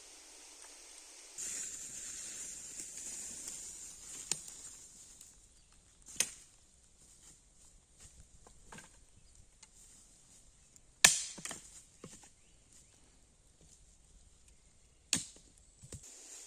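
Sharp chopping strikes on wood: four loud ones several seconds apart, with a few lighter knocks between them. A hiss starts about a second in and fades out before the second strike.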